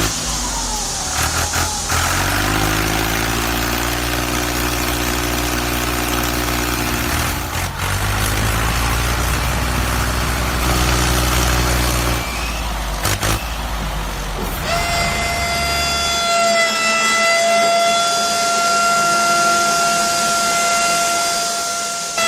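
A vehicle engine running with a steady low hum, its note shifting a few times. Then, about fifteen seconds in, a long steady horn- or siren-like tone starts and holds to the end.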